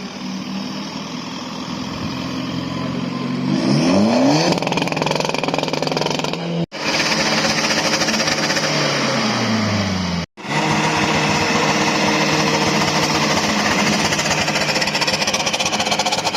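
Car engines revving hard through loud exhausts, with a harsh rattling edge, in short clips cut together. One rev climbs sharply about four seconds in, and another winds down a few seconds later.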